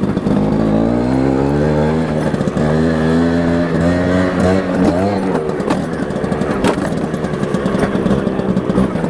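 Small motorbike engine accelerating under load: the revs climb for about a second and a half, hold, dip and rise again briefly near the middle, then run on steadily with rattles and knocks over rough ground.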